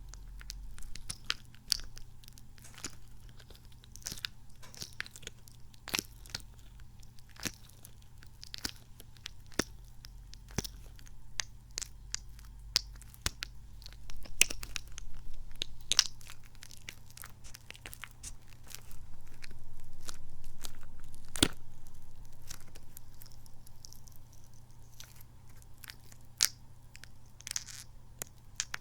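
Squishy kidney-bean toy squeezed and pulled close to the microphone: irregular sticky crackles and squelching clicks over a faint low hum, with a louder stretch of handling noise about two-thirds of the way through.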